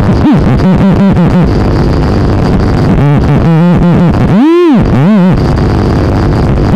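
Experimental electronic noise music: a loud, dense noise bed with quick stuttering pitch swoops and a low buzzing tone, then two big rising-and-falling glides near the end.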